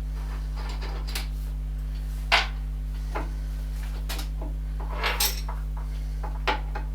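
Hand tools clinking and knocking against the metal parts of a lathe: a handful of short, sharp metallic clicks spread across a few seconds, over a steady low electrical hum.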